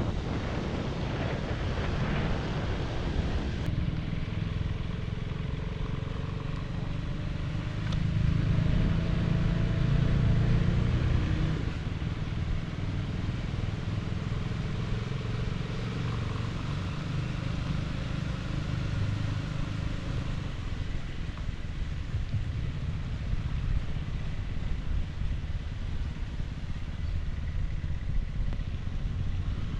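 Motorcycle engine running steadily while riding, with wind and road noise on the microphone; the engine gets louder for a few seconds about eight seconds in.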